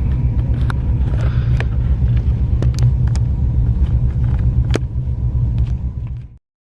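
Low, steady rumble of a car driving in slow cruise traffic, with scattered light clicks. It cuts off abruptly near the end.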